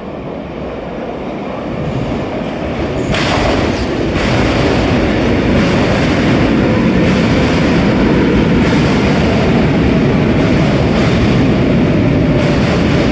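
RER A double-deck electric train running through the station, growing louder over the first few seconds and then holding a steady rumble. Repeated wheel clicks run through it, with a faint whine that falls slightly in pitch near the end.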